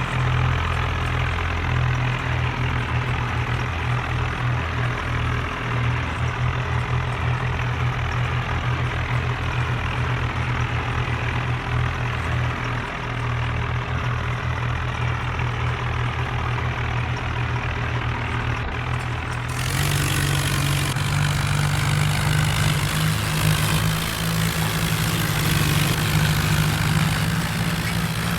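Tractor engine running steadily with a heavy, pulsing low note. Its tone changes abruptly about two-thirds of the way in.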